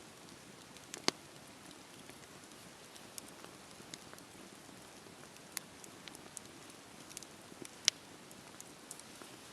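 Wood fire crackling: a soft steady hiss with scattered sharp pops, two of them much louder, about a second in and again late on.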